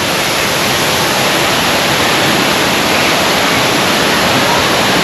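Large waterfall rushing steadily: a loud, even roar of falling water with no breaks.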